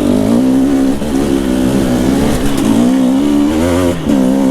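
Two-stroke enduro dirt bike engine running under the rider's throttle along a trail, its pitch wavering up and down with throttle changes. It backs off briefly about four seconds in, then picks up again.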